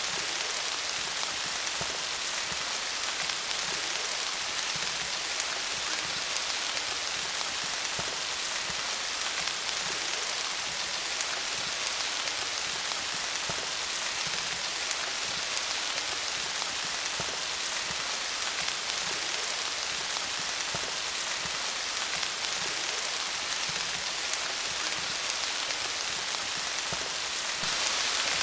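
Steady rain falling on leaves: a dense, even hiss of drops with scattered individual taps, growing a little louder near the end.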